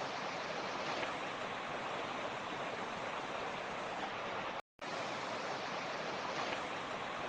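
Mountain stream running steadily, an even rush of water with a momentary dropout to silence about two-thirds of the way through.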